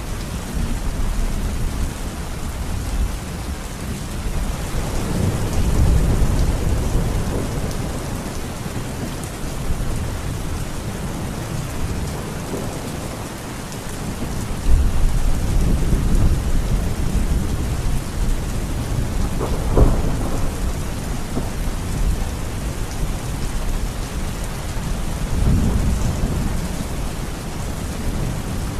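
Steady heavy rain with thunder rumbling several times, swelling and fading in low rolls, and a sharper thunder crack about two-thirds of the way through.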